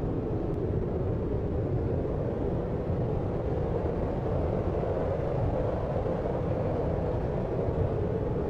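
Steady deep noise for sleep, a low, even rumbling hiss with little treble and no distinct events.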